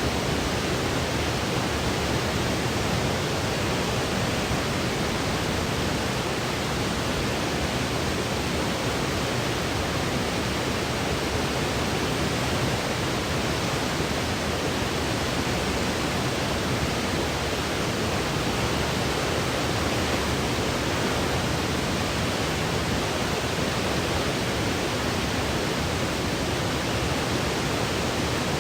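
Synthetic white noise for sleep: a steady, even hiss that does not change, with the highest treble rolled off.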